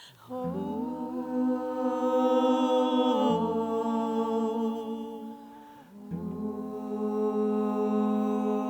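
A small vocal ensemble sings an a cappella lullaby in long, held, humming chords of several voices. There are two long phrases, with a brief breath between them about six seconds in.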